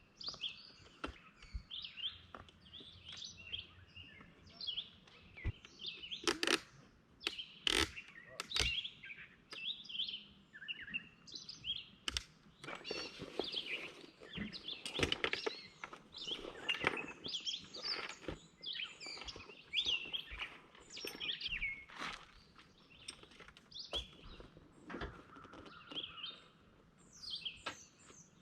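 Songbirds chirping and calling over and over, many short chirps and trills, with a few sharp clicks mixed in.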